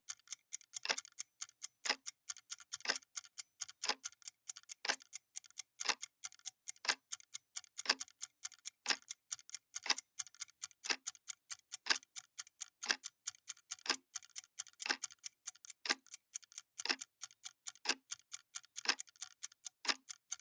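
Clock-tick sound effect of a countdown timer: one sharp tick every second, with fainter ticks in between.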